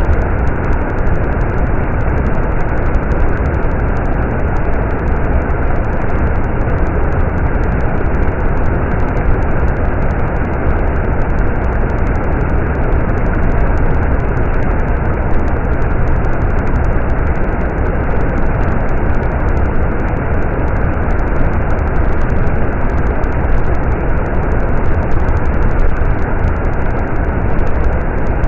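Stream water running, a steady rush with a strong low rumble and no change throughout.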